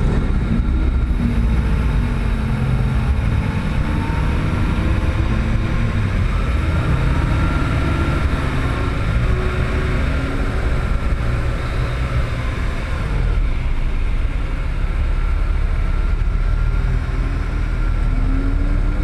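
Car engine and road noise from driving slowly, a steady low rumble with faint shifts in pitch.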